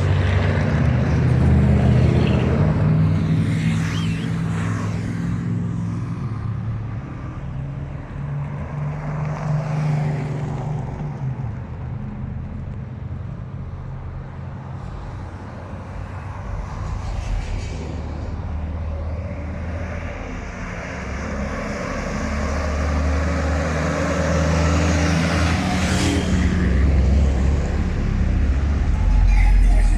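Trucks driving past one after another, their engines rumbling low, the sound swelling as vehicles come close about two seconds in and again near the end, fading in between.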